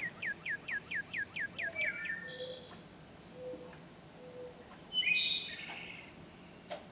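A bird calls a rapid series of about a dozen clear, downslurred whistled notes, about six a second, lasting roughly two seconds. Three soft low notes follow, then a brief louder call about five seconds in.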